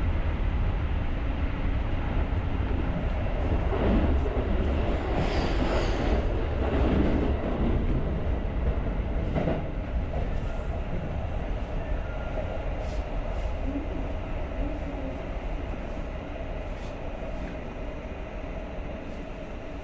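Electric commuter train running on the track: a steady low rumble with a few short knocks from the wheels and rails in the first half, growing gradually quieter through the second half.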